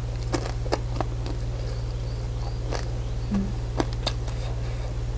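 Close-miked chewing of a fried dumpling with the mouth closed: a handful of sharp, wet mouth clicks, one short low hum about three seconds in, all over a steady low electrical hum.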